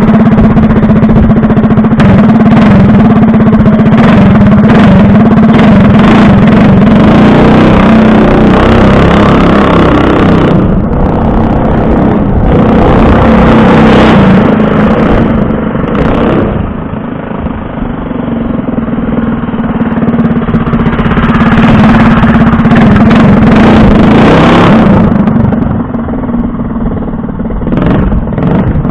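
Predator 212cc single-cylinder mini bike engine running loud through a Robertson torque tube pipe with the exhaust open, no restrictor in. It is held at steady revs for long stretches, easing off about halfway through and again near the end.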